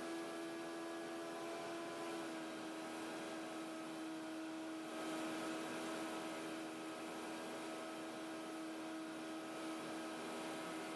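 Cessna 150's Continental O-200 four-cylinder engine and propeller droning steadily in cruise, the pitch shifting slightly about two seconds in.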